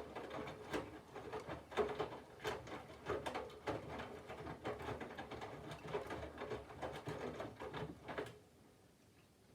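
Candy front-loading washing machine's drum tumbling laundry in water during the cold wash phase: irregular sloshing thuds and swishes that stop about eight seconds in as the drum comes to rest.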